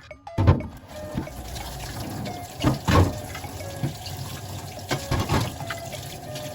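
Water running and splashing in a kitchen sink, with a few louder splashes or knocks.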